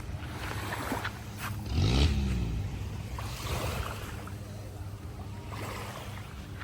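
Boat engine running steadily, with a louder surge about two seconds in as its pitch shifts.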